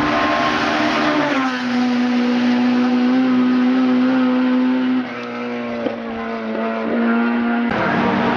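Racing car engine at high revs on a hill-climb run, holding a steady note that steps down in pitch about a second in as it shifts up. The engine eases off about five seconds in and picks up again near the end.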